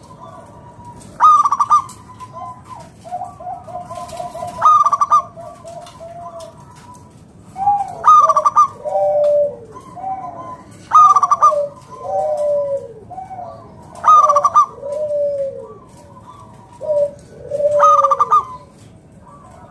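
Zebra dove (perkutut) singing its cooing song: about six loud phrases, one every three seconds or so, each followed by a run of lower, falling coos.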